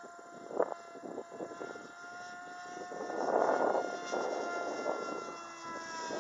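Electric RC airplane's motor and propeller whining in flight, the pitch holding steady and then sliding down near the end. Gusts of wind buffet the microphone, strongest about halfway through.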